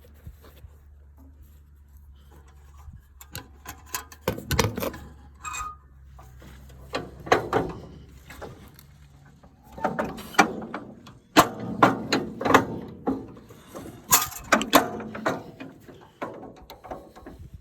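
Metal clanking and ratchet-like clicking in several irregular bursts of a second or two each, over a faint low hum that stops about four seconds in.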